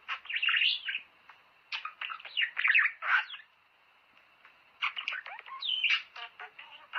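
Budgerigars chattering and warbling in three bursts of quick chirps and sliding whistles, with short pauses between them.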